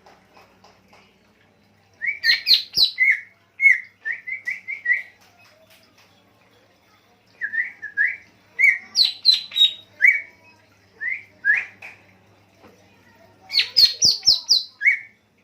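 A songbird singing bursts of rapid, sharp chirps and short whistled notes: three main phrases, about two seconds in, in the middle, and near the end. This is recorded masteran song for training pet songbirds.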